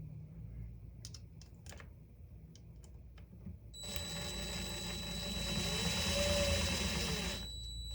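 Light clicks and taps of parts being handled, then about four seconds in a small electric motor runs steadily for a few seconds with a high whine before stopping.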